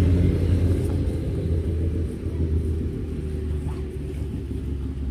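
A steady, low engine rumble that slowly fades.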